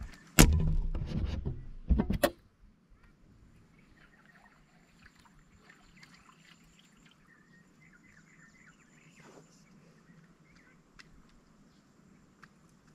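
A sharp knock, then about two seconds of loud rumbling handling noise and a second short burst, cutting off suddenly; after that, faint bird calls chirp in the background.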